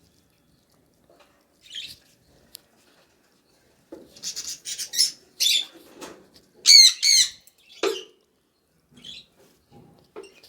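Lovebirds calling: a few faint chirps at first, then from about four seconds in a run of shrill high chirps and squawks, loudest around seven seconds, with a little rustling underneath.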